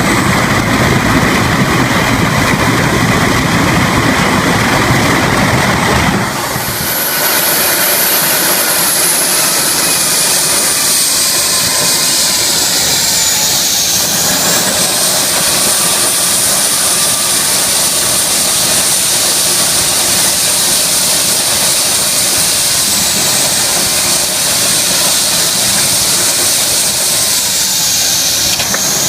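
Jet engine running on a test run. A loud, full roar for about six seconds, then the low rumble drops away, leaving a high turbine whine and hiss whose pitch sags and recovers a couple of times.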